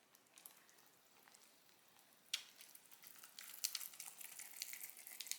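Faint sizzling and crackling of treacle toffee mixture boiling in a saucepan, with a single sharp click a little over two seconds in; the crackling grows denser in the second half.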